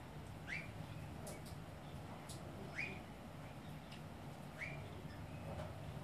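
A bird gives a short, rising whistled note three times, about two seconds apart, with a few faint high chips in between.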